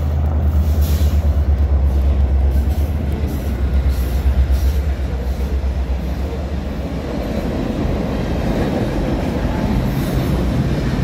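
Canadian Pacific GP20C-ECO diesel locomotive passing with a deep engine rumble that fades after about five seconds. The train's cars then roll by with steady wheel and rail noise.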